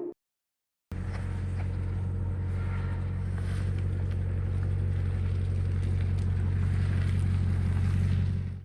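Ram TRX's supercharged 6.2-litre V8 running steadily, a low even drone that starts about a second in, grows slightly louder and cuts off abruptly near the end.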